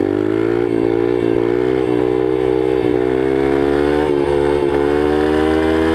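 Yamaha TTR125 pit bike's single-cylinder four-stroke engine held at high revs through a long wheelie, its pitch climbing slowly with a few brief dips where the throttle is eased.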